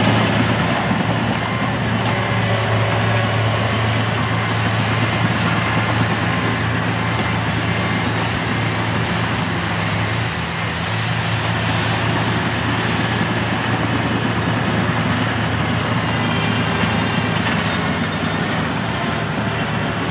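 Engine of heavy earthmoving equipment running steadily, a constant low drone.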